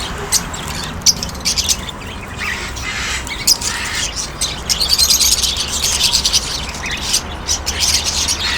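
A flock of small pet birds chirping and chattering in quick, overlapping calls, busiest from about halfway through, over a low steady hum.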